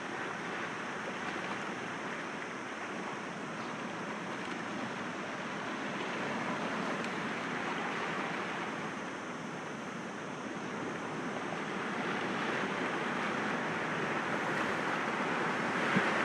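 Sea waves breaking gently against rocks: a continuous wash of surf that swells and eases slowly, building again toward the end.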